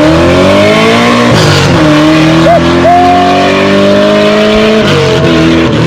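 A car engine accelerating hard and loud, rising in pitch through the gears with two upshifts where the pitch drops and climbs again.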